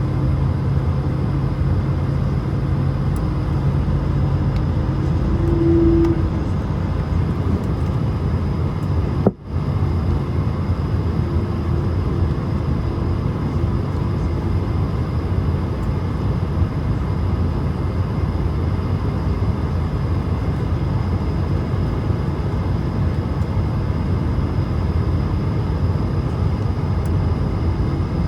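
Steady cabin rumble of an Airbus A220 jet, engine and airflow noise heard from inside the cabin, with a faint hum in the first few seconds. A sharp click and a momentary break about nine seconds in.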